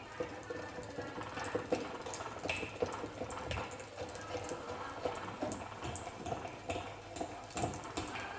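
Hand-cranked manual meat grinder in use, its crank, auger and plastic body giving off an irregular run of small clicks and scraping.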